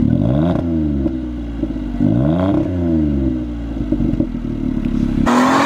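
Smart Fortwo's 1.0-litre three-cylinder engine blipped twice from idle through its exhaust, the pitch climbing and falling back each time, with the engine settling between the revs. Music comes in near the end.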